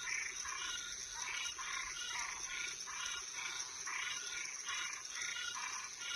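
Night chorus of frogs and treefrogs: short calls repeating about twice a second, over a steady high-pitched drone of crickets.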